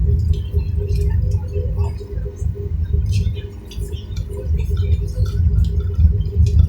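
Airliner cabin noise on the ground before takeoff: a steady low rumble with a constant hum, and scattered small clicks and knocks.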